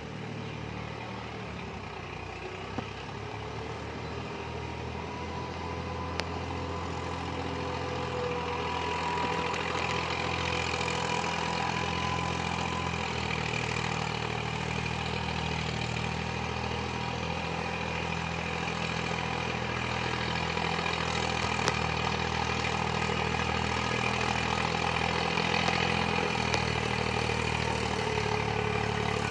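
An engine running steadily throughout, its hum slowly growing louder over the first several seconds, with a couple of faint clicks.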